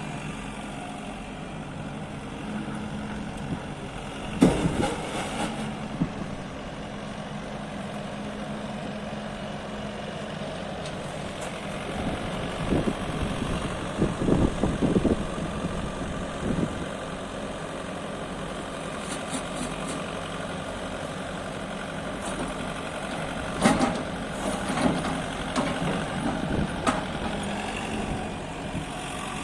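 Diesel engine of a JCB 100C-1 tracked excavator running steadily. Several sudden knocks and clanks sound over it: one loud knock about four seconds in, a cluster around the middle, and more near the end.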